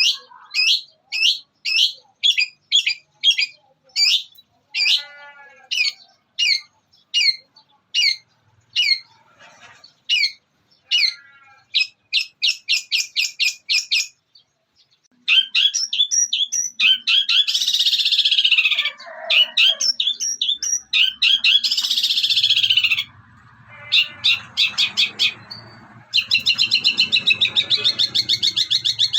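Long-tailed shrike (cendet) singing a song of mimicked calls. It opens with separate sharp chips, about two a second, which quicken into a rapid run. After a brief pause come long stretches of dense, scratchy chattering, broken by another short pause.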